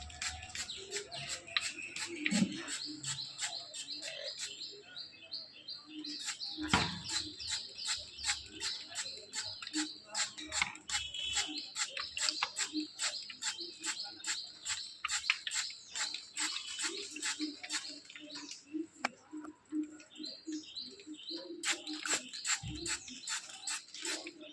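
Pet parrots chirping, a rapid string of short sharp calls that goes on and off.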